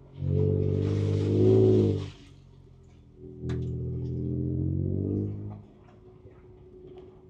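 Ford Ranger Raptor's twin-turbo V6 heard from inside the cab, given two bursts of throttle of about two seconds each and dropping back to a quiet idle between and after them. A hiss rides over the first burst, and a sharp click comes a little after three seconds.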